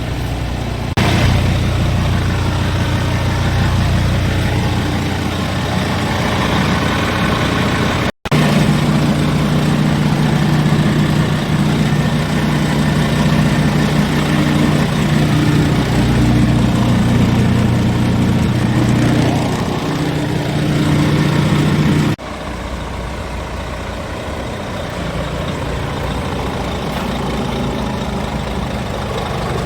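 Scania R tractor unit's diesel engine running. Its note steps up and holds steady at a higher, louder pitch through the middle, then drops suddenly to a quieter idle about two-thirds of the way through.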